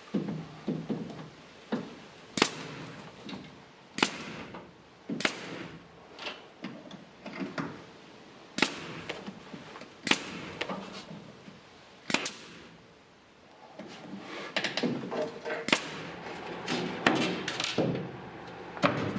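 Irregular sharp wooden knocks and taps, roughly one every second or two, with a busier run of smaller knocks near the end, echoing in a small enclosed space: wall boards being handled and fastened during interior woodwork.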